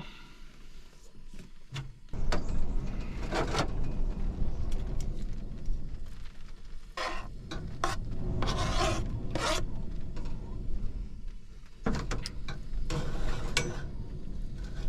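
Scraping and rubbing with a few light knocks, as of pots and utensils being handled at a camp stove, over a steady low rumble that comes in about two seconds in.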